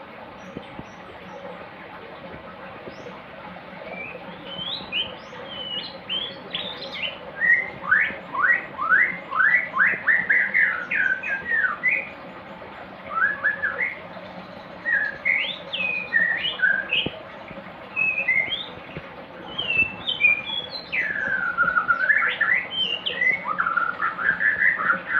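A kept songbird singing in quick phrases of sweeping whistled notes, starting a few seconds in and running in bursts with short pauses, over a faint steady background hum.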